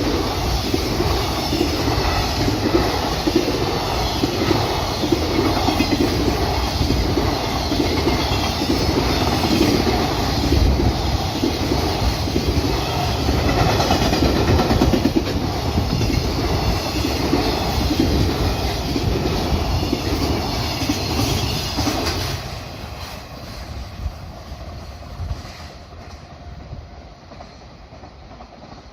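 Freight train passing, its wagons' wheels clattering over the rail joints in a repeating rhythm; the sound fades away over the last several seconds as the train moves off.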